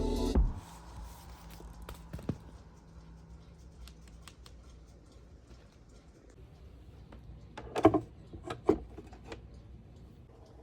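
Background music cuts off at the start, leaving a quiet room with a few small clicks and handling noises, then a quick cluster of sharper clicks or snips about eight seconds in.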